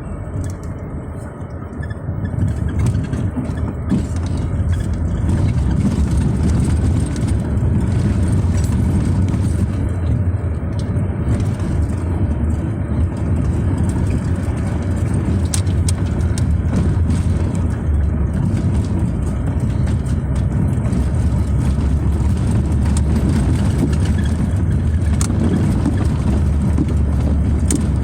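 A car driving, its engine and tyre noise a steady low rumble that grows louder about two to five seconds in as it picks up speed, then holds steady.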